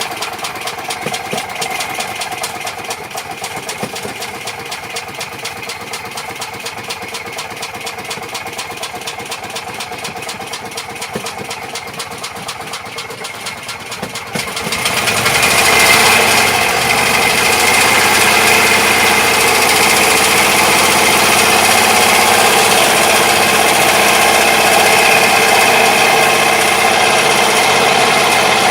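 2002 Club Car Turf 2 golf cart's single-cylinder gas engine running at low speed with an even, rapid firing beat. About halfway through it speeds up and stays louder and higher.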